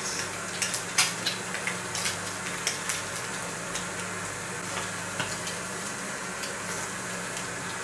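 Food sizzling in a frying pan, with a utensil scraping and tapping against the pan, mostly in the first three seconds and a few times later.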